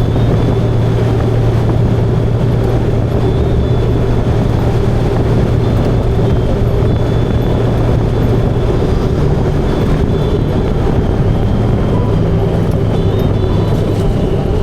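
Motorcycle running steadily at cruising speed, with an even engine hum that holds its pitch throughout.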